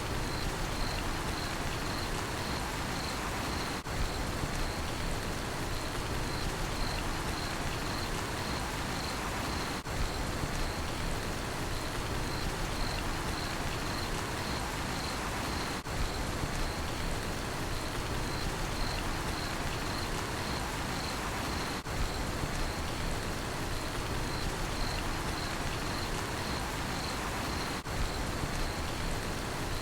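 Steady rain falling, with crickets chirping in an even pulsing rhythm over it. The sound dips briefly about every six seconds.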